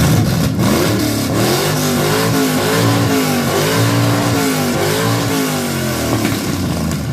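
A car engine revved hard several times through a loud aftermarket exhaust, its pitch climbing and falling again with each blip.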